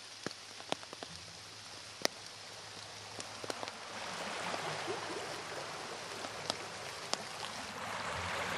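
Rain falling in woodland: a steady hiss with separate sharp drips close by. The rain grows louder from about halfway through.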